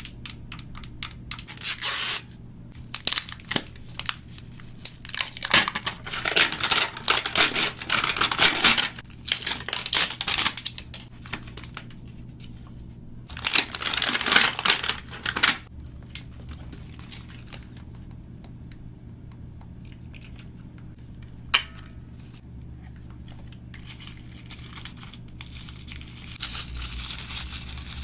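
Toy packaging being torn open and crinkled by hand in several irregular bursts, with one sharp click about three-quarters of the way through and quieter handling afterwards.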